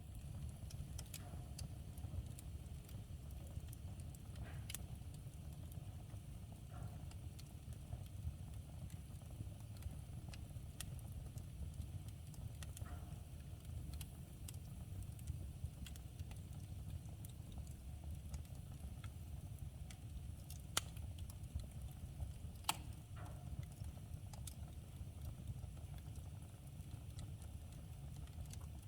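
Wood fire crackling in a fireplace: scattered sharp snaps and pops over a steady low rumble, with two louder pops a little past the two-thirds mark.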